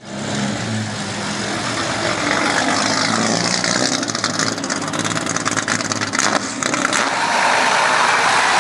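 A car engine running and pulling away, with a run of rapid crackling clicks in the middle.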